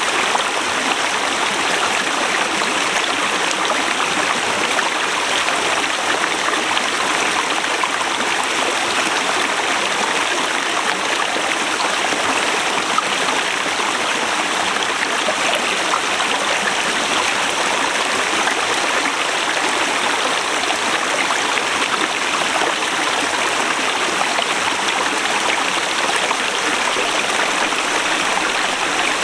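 Forest river rushing over rocks: a steady, even flow of water with no breaks.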